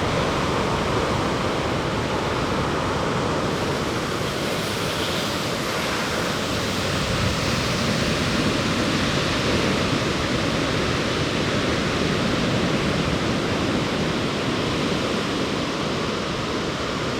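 Ocean surf breaking on the shore in a steady, unbroken rush, the heavy sea just after a typhoon has passed.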